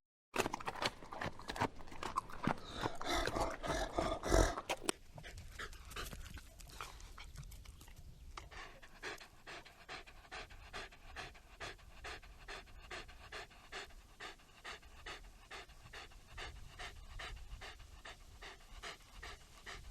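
An animal panting in quick, even breaths, louder and more uneven for the first five seconds or so.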